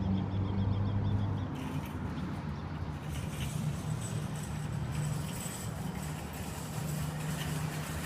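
A motor vehicle's engine running, a steady low hum whose pitch shifts after about a second and a half, over a constant background of traffic noise.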